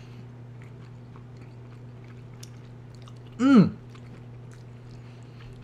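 A person chewing a mouthful of soft tofu stew, with small wet mouth clicks, and one short falling "mmm" of enjoyment about three and a half seconds in. A steady low hum runs underneath.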